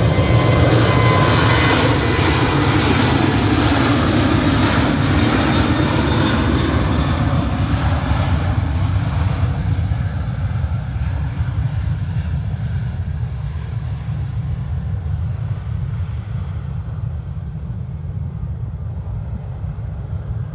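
Airbus A380 jet engines and airflow making a loud, steady rushing noise. It turns duller and gradually quieter over the second half.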